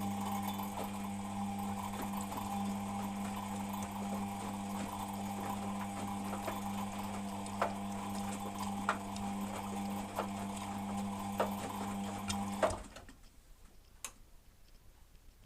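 Beko WMP 601 W washing machine turning its drum in the wash: a steady motor hum with a few sharp knocks, which stops suddenly about thirteen seconds in. While the drum turns it makes a slight grinding noise that it doesn't make on spin, the cause of which the owner doesn't know.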